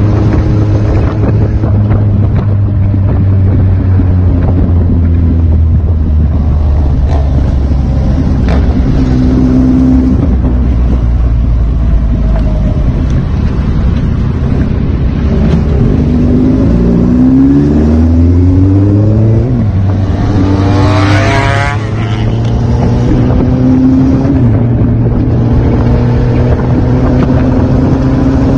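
Kawasaki Z800 inline-four motorcycle engine running at speed, with wind noise on the microphone. About fifteen seconds in it is accelerated hard, its pitch climbing steeply, then drops off briefly just past twenty seconds, as at a gear change, before running steadily again.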